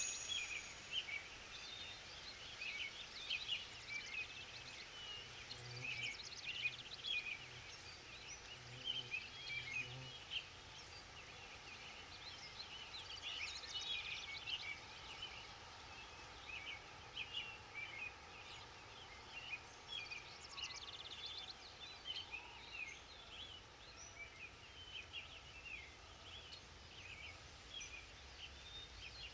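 Forest ambience: a chorus of many small birds chirping and trilling, short high calls overlapping without pause over a faint steady hiss.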